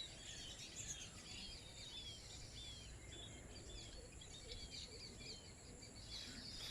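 Wild birds calling with short, high, downslurred chirps repeated about twice a second, faint over a low rumble.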